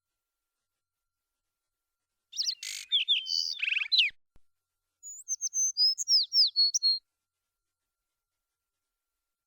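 Small songbird chirping: a burst of high chirps and trills about two seconds in, then a run of quick downward-sweeping chirps about five seconds in, with dead silence before, between and after.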